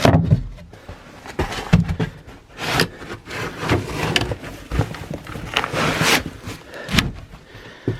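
Knocks, thumps and rustling from camper fittings being handled and moved, as lids, cushions or panels are shifted, with a sharp knock about seven seconds in.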